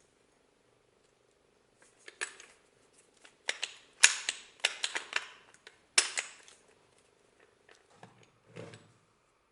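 Sharp metallic clicks and clacks from handling old powder-actuated tool parts, several in quick succession, with a couple of duller knocks near the end.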